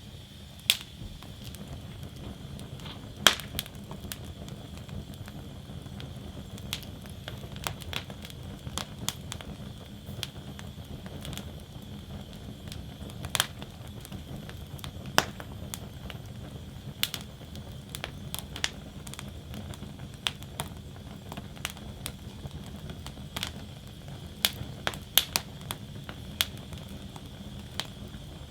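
Wood fire burning in a fire basket: a steady low rush of flames with irregular crackles and pops of the burning wood, a few of them sharp, louder snaps.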